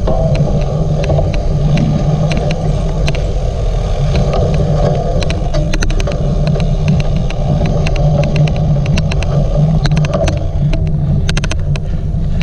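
Rolling rumble and wind rush from a cyclocross bike being ridden over rough ground, overlaid by an irregular run of sharp clicks, the odd clicking noise of the recording, thickest near the start and again near the end.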